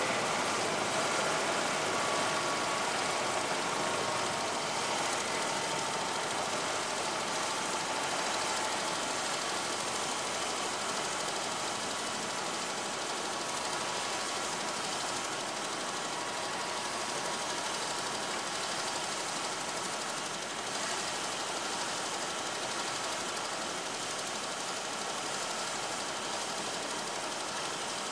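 Helicopter engine running steadily, with a faint high whine that fades away over the first several seconds.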